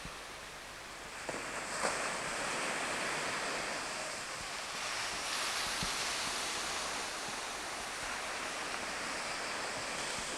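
Sea waves washing onto the shore, a steady rush of surf that swells about a second in and again around the middle.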